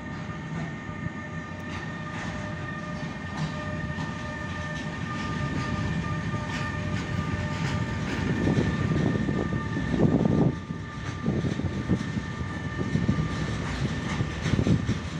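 Railpool class 186 Bombardier TRAXX electric locomotive hauling an intermodal freight train past at speed: rumble of wheels on rails with a steady whine that fades as the locomotive goes by about nine seconds in, then the wagons clatter over the rail joints.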